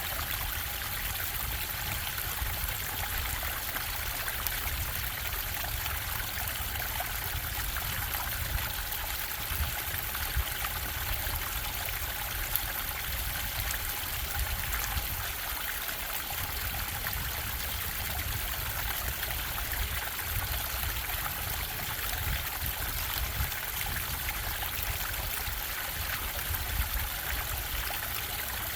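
Stream bubbling and trickling steadily over rocks, with a low rumble of falling water underneath.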